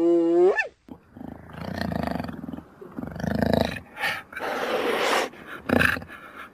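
Animal calls: a pitched, bleat-like cry ends in the first second, followed by a series of rough, breathy roaring calls about a second each with short pauses between.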